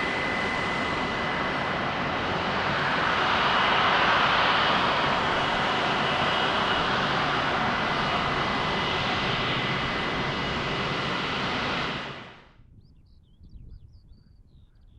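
Jet engine noise of an Airbus A330 airliner, loud and steady with a thin high whine at first, swelling about four seconds in. It cuts off abruptly near the end, leaving faint bird chirps.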